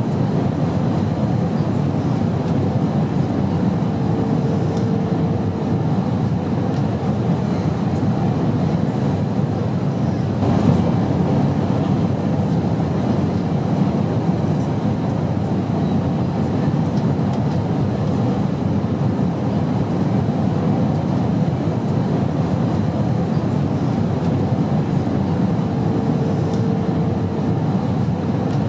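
Steady low rumbling drone of an airliner cabin in flight, with a faint brief tone twice.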